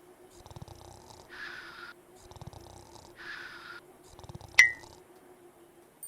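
Cartoon snoring sound effect: three rattling snores, each followed by an airy exhale, repeating about every two seconds. A short sharp ding comes about four and a half seconds in.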